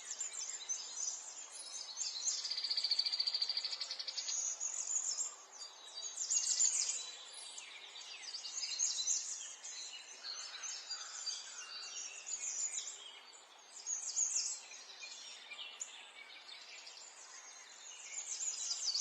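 Several small songbirds chirping and singing fast high trills, their calls overlapping, over a faint steady background hiss. The trills are loudest about three seconds in and again near the middle.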